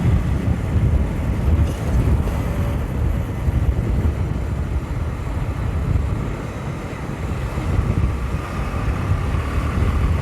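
Wind buffeting the microphone of a motorcycle riding at road speed, a steady low rumbling rush, with the Bajaj Pulsar 220's engine running beneath it. The rush eases a little just past the middle and comes back up.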